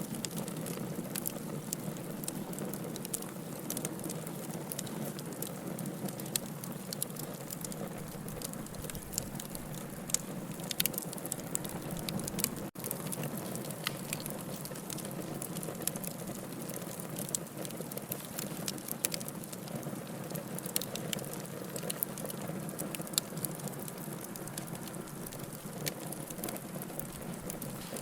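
Wood fire in a fireplace crackling, a steady low rush with irregular sharp pops and snaps; a momentary drop-out about halfway through.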